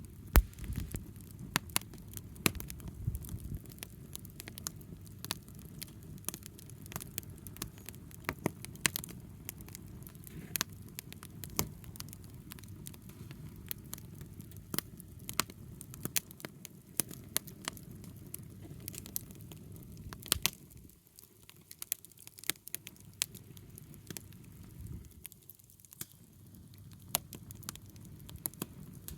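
Wood bonfire crackling: irregular sharp pops and snaps from the burning wood over a steady low rush of the fire, which eases off briefly twice near the end.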